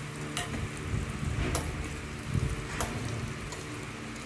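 Sliced bitter gourd frying in mustard oil in a steel kadhai, a steady sizzle, while a steel ladle stirs it and clinks against the pan three times.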